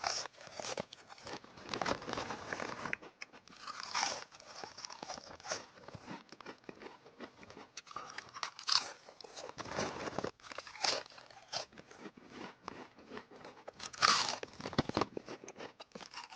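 Potato chips being bitten and chewed by the mouthful: a run of irregular, crisp crunches, louder in a few bursts.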